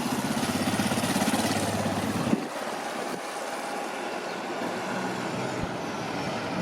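A motor vehicle's engine running close by with a low, pulsing note that stops abruptly about two seconds in, followed by steady street traffic noise.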